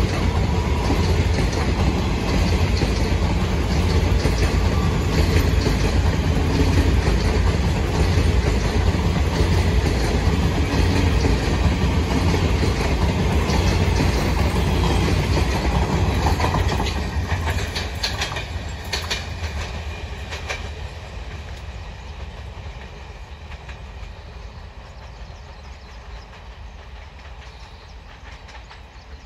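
Passenger train coaches running past on the track: a loud, steady rumble of wheels on rails with a clickety-clack. A few sharper clacks come as the last coach passes a little past halfway, then the sound fades steadily as the train draws away.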